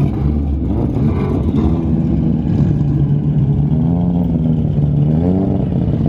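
Car engine running at low revs, its pitch wavering and briefly rising and falling about five seconds in.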